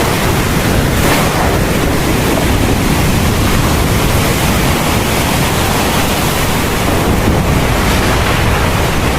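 Heavy thunderstorm rain falling steadily, a dense hiss of rain over a constant deep rumble.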